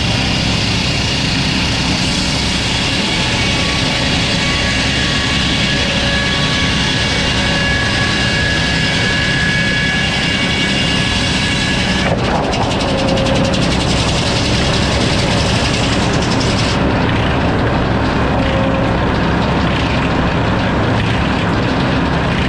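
Sawmill saw running and cutting through a hardwood log: a loud, steady machine drone with a whining tone, which changes character about halfway through as the cut goes on.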